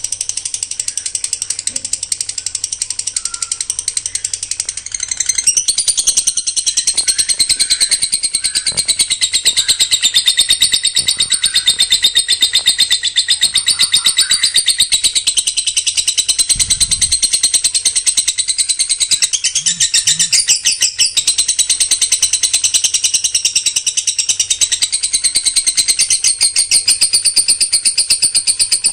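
Songbird singing a continuous, very fast run of repeated high notes, the close-packed 'tembakan rapat' burst of a competition songbird.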